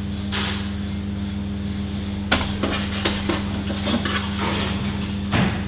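A few short, sharp clicks and faint rustling as hair is handled and Kirby grips are eased into a hair pad, over a steady low hum.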